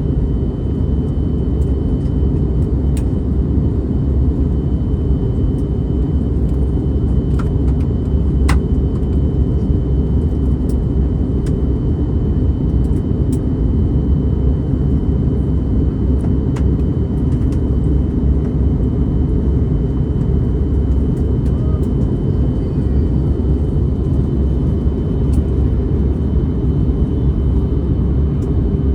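Steady cabin noise of an Airbus A321neo in flight during descent: a deep, even rumble of airflow and engines with a faint steady hum above it.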